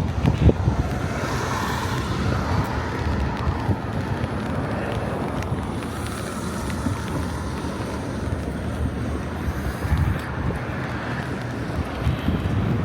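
Wind buffeting the microphone: an irregular low rumble that rises and falls in gusts, over a steady outdoor hiss.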